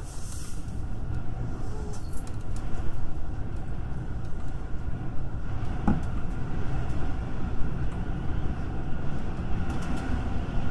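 Musashino Line electric train running at reduced speed under a strong-wind restriction: a steady low rumble of wheels on rail with a faint steady whine. There is one short knock about six seconds in.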